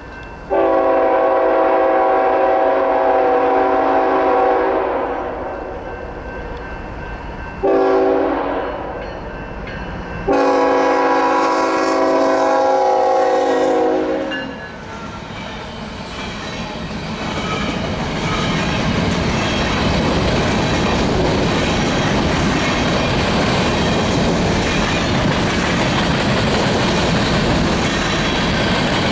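A GE Tier 4 diesel locomotive's multi-chime air horn sounds three blasts: a long one, a short one near the eight-second mark, and another long one. The train then draws close and passes, its rumble and clickety-clack of wheels on rail joints building up and holding steady.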